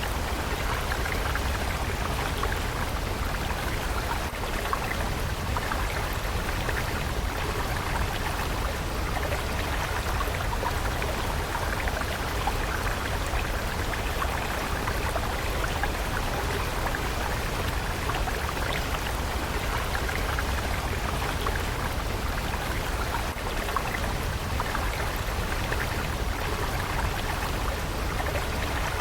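Steady running water of a stream, splashing and bubbling continuously over a low rumble.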